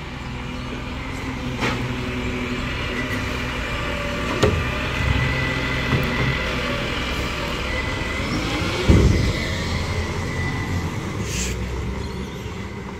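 Garbage truck engine running steadily, with sharp clunks about one and a half, four and a half and nine seconds in, the one near nine seconds the loudest.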